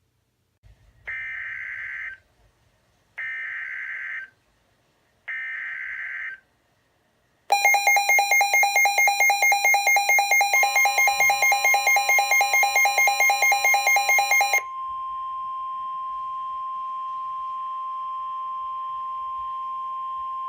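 Midland WR-120 weather radio going off for a NOAA Weather Radio warning: three short bursts of screechy data noise (the SAME alert codes), then the radio's rapidly pulsing alarm for about seven seconds. Partway through the alarm the steady warning alarm tone starts and holds alone to the end, announcing a severe thunderstorm warning broadcast.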